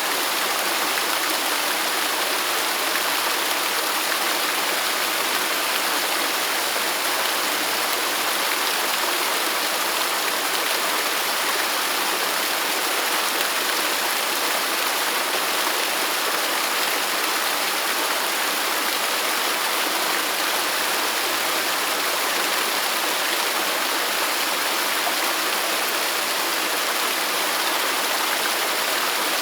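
Waterfall: falling water rushing in a steady, even hiss with no change in level.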